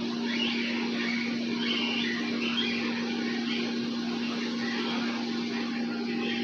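Cockatiels in an aviary giving short, high chirping calls every second or so, over a steady low hum.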